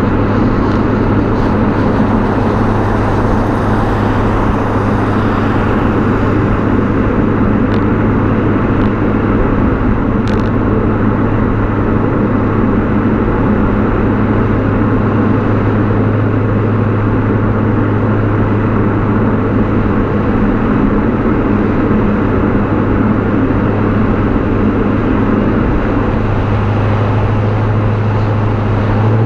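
BMW E39 540i's 4.4-litre V8 exhaust droning at a steady, unchanging engine speed while the car drives, with road and wind noise mixed in.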